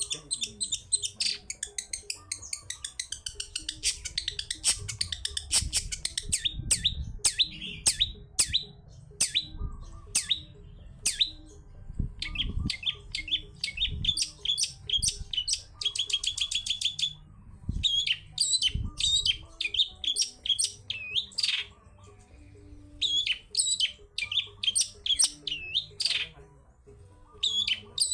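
Long-tailed shrike (cendet) singing: long runs of sharp, quick chirps and calls, with a fast, evenly spaced trill a little past halfway and a few short pauses.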